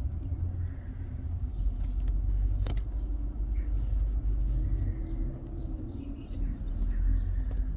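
Outdoor garden ambience: a steady low rumble with faint birdsong, and a single sharp click a little under three seconds in.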